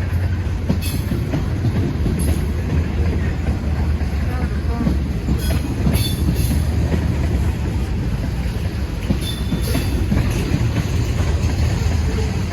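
A train rolling past close by: a steady low rumble, with sharp clicks of the wheels over rail joints, often in pairs about half a second apart.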